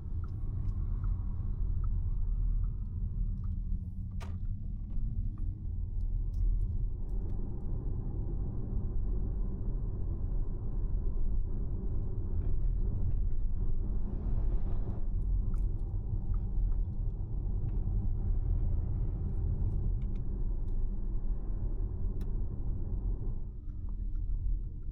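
A car driving along a road: a steady low rumble of engine and tyre noise, swelling a little in the middle.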